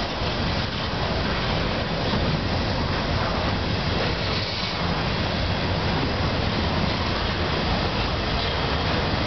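Intermodal freight cars rolling past at speed: a steady, even noise of steel wheels running on the rails.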